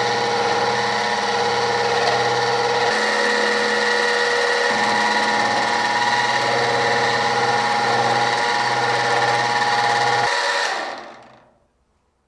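Workshop machine tool running steadily with a motor hum and several steady whining tones, then switched off about ten seconds in and spinning down to silence.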